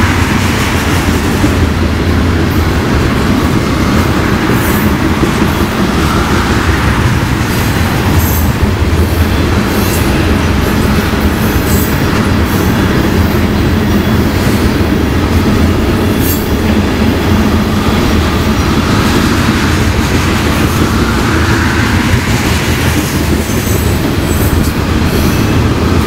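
Freight train of tank cars rolling past close by: a steady rumble of steel wheels on the rails, with irregular clicking over the rail joints.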